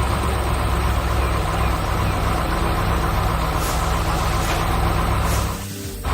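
Heavy construction-vehicle engine running steadily, a low rumble that dips briefly near the end and then carries on.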